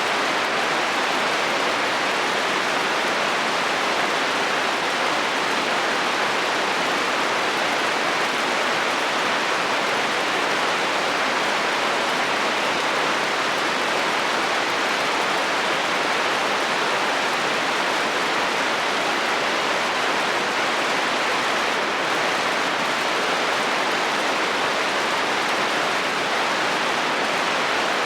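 Heavy rain drumming steadily on a metal roof, an even, unbroken patter with no thunder.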